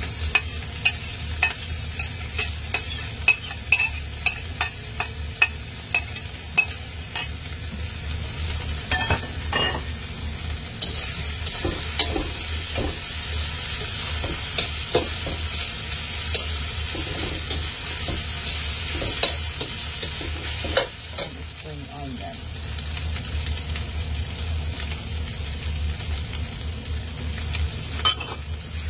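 Fried rice sizzling in a stainless steel wok while it is stir-fried. Sharp metal clicks of the utensils against the bowl and wok come about twice a second for the first several seconds, and the sizzle grows louder and hissier for about ten seconds in the middle.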